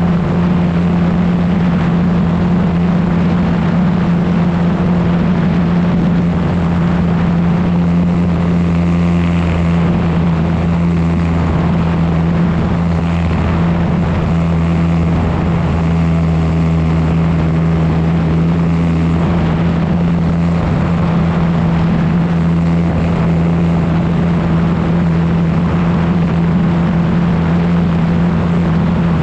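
Yak 54's engine and propeller running loud and steady at a nearly constant pitch, heard up close from a camera mounted on the aircraft, with rushing air noise.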